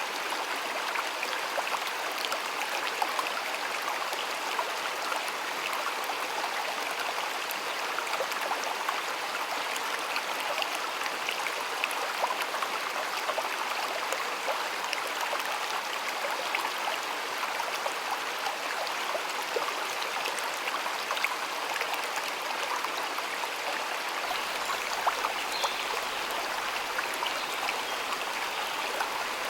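Flowing stream water, a steady rushing babble with small splashes and trickles throughout.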